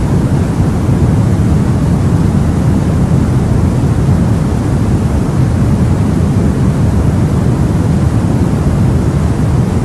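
Steady sleep-noise hiss with a deep rumble, heaviest in the low end, unchanging throughout.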